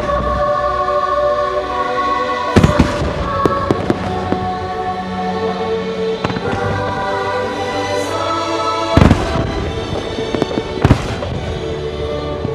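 Fireworks bursting over an orchestral holiday show soundtrack. The loudest bangs come about two and a half seconds in and again about nine seconds in, with smaller pops and crackles between them.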